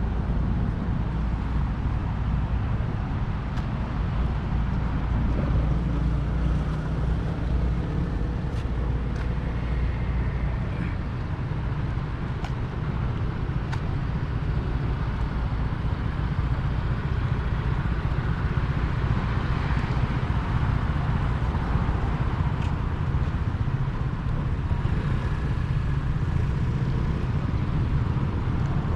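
Steady rumble of city road traffic, with a few faint ticks scattered through.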